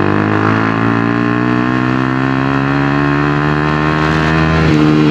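Honda CBR 250R's single-cylinder engine running as the bike is ridden. The pitch climbs gently over the first couple of seconds, then holds steady.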